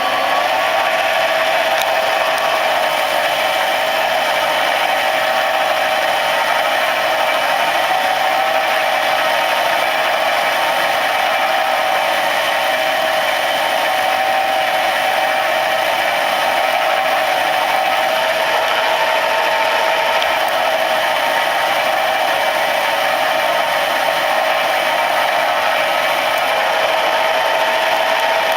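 Homemade Boddo Mills 0.75 cc contra-piston model diesel engine running at high speed: a loud, steady, high-pitched buzz whose pitch wavers slightly as the revs drift.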